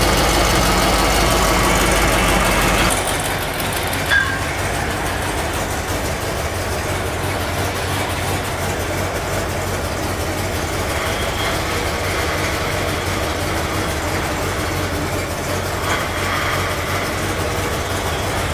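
1973 Cadillac Eldorado's 500 cubic-inch V8 idling steadily, running to circulate freshly added power steering fluid. About three seconds in the sound drops to a quieter, thinner idle, and a short click comes about a second later.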